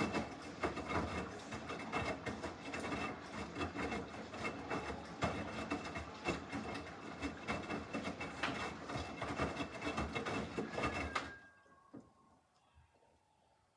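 Samsung washing machine running its normal wash cycle: a dense churning and clattering from the drum that stops abruptly about eleven seconds in, leaving near quiet.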